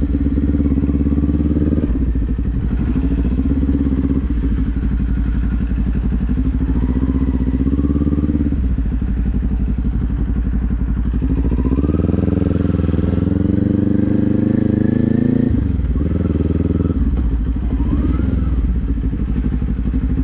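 Motorcycle engine running under way, its pitch rising and falling with the throttle: a strong climb in revs about twelve seconds in, held rising for a few seconds, then dropping off.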